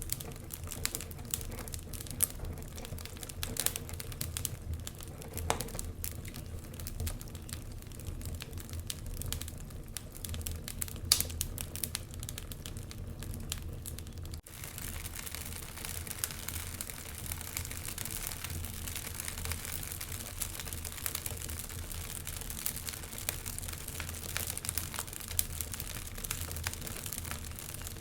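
Wood fire burning in a fireplace, crackling with many small irregular pops over a low steady rumble. About halfway through, the sound changes abruptly to a denser hiss with fewer distinct pops.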